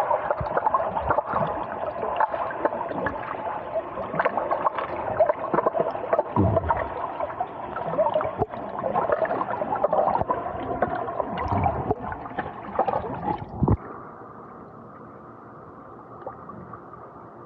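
Muffled water gurgling and sloshing against a submerged Insta360 Go 2 action camera's microphone, with many small crackles and splashes. About 14 seconds in it suddenly drops to a quieter, duller steady hiss.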